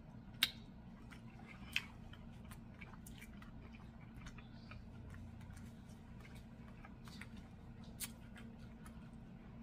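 Close-miked chewing with soft, wet mouth clicks, three sharper clicks about half a second, two seconds and eight seconds in, over a steady low hum.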